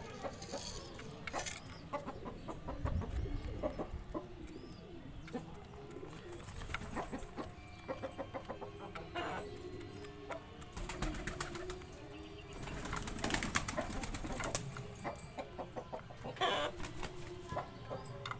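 Low cooing bird calls come and go, with scattered clicks and scratches and a denser stretch of rustling about two-thirds of the way through.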